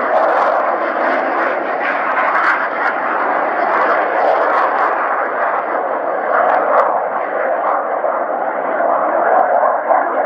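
A fixed-wing aircraft's engine running loud and steady, a dense rushing noise with no clear pitch that holds without a break.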